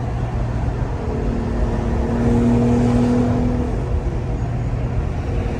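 Twin-turbocharged Infiniti G35's 3.5-litre V6 engine running steadily while driving, swelling louder for about two seconds near the middle and then easing back.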